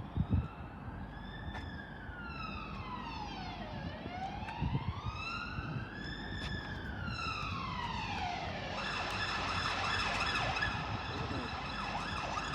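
Siren of an emergency vehicle sounding a slow wail, rising and falling twice over about nine seconds. About nine seconds in, it gives way to a steadier sound of several held tones.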